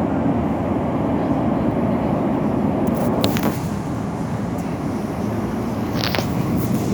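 Steady rumble of an Elizabeth line Class 345 train heard from inside the carriage as it runs along, with a few brief hissing ticks about three seconds in and again near six seconds.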